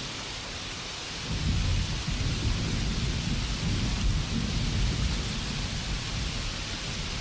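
Steady rainfall hiss, with a low rumble underneath that swells about a second in and carries on.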